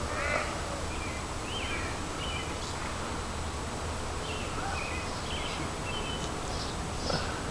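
Small birds chirping in short, repeated calls over a steady hum of outdoor background noise.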